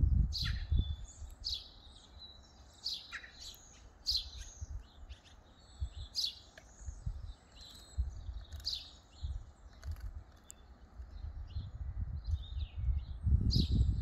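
Small songbird chirping: a string of short, high chirps, about one or two a second, repeated through the whole stretch. A low rumble comes in near the end.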